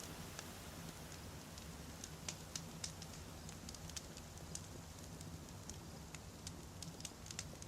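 Wood campfire burning, with irregular sharp crackles and pops of the firewood, several a second, over a steady low rumble.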